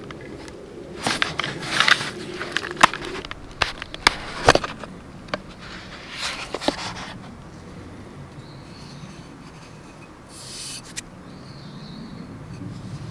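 A series of knocks, clicks and rustles, like gear or wood being handled, over the first seven seconds or so, then quieter with a brief hiss near the end.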